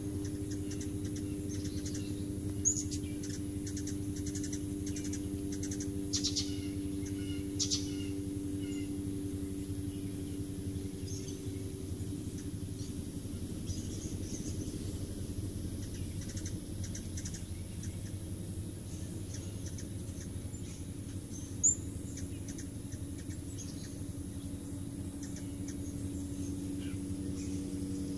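Small birds chirping outdoors: scattered short, high chirps and ticks, with two sharper chirps about three seconds in and again near the end. Under them runs a steady low hum.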